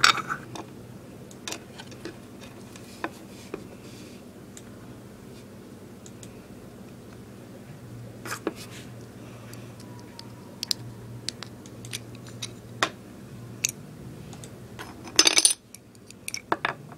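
Angry Birds Star Wars plastic toy figures and their packaging being handled: scattered small clicks and clinks, with a louder noisy burst near the end, over a low steady hum.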